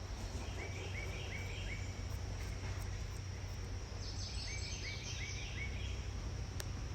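A bird calling in two quick series of short repeated notes, the first about a second in and the second about four seconds in. Under it run a steady high insect buzz and a low outdoor rumble.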